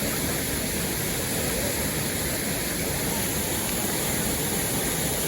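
Rushing water of a river or waterfall: a steady, even noise.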